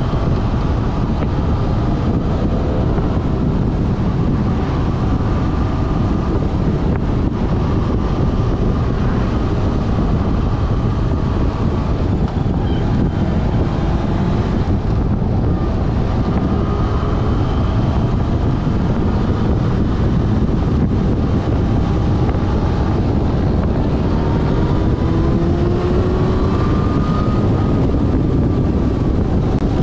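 Heavy wind noise on the microphone of a GoPro mounted on a moving Yamaha Fazer FZ6S motorcycle, with the bike's inline-four engine faintly underneath, its pitch slowly gliding up and down with speed.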